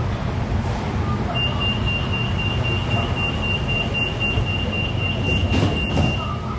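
Pink Line monorail train running, heard inside the car: a steady low rumble, with a high steady whine that starts about a second and a half in and stops near the end. Two short knocks sound near the end.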